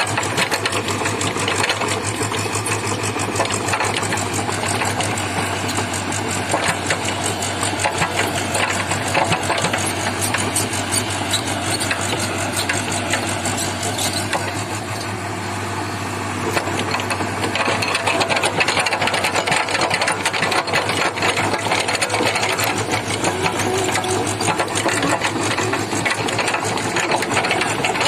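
JCB JS 81 excavator's diesel engine running under load, with a fast, even rattle. It is briefly quieter about halfway through.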